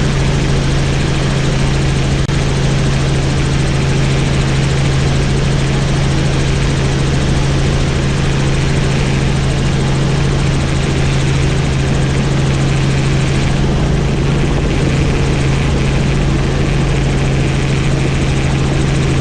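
Helicopter in flight, its turbine engine and rotor blades making a loud, steady drone with a constant low hum throughout.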